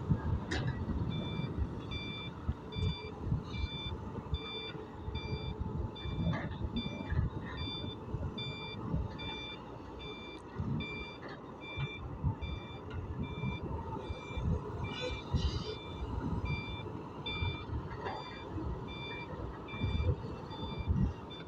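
Vehicle reversing alarm beeping at an even pace, starting about a second in, over the low rumble of heavy diesel machinery.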